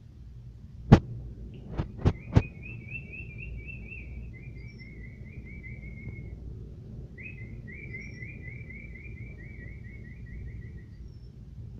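Canary singing two long rolling trills of rapidly repeated notes, with a short pause between them. Before and as the first trill starts there are four sharp clicks, the first the loudest.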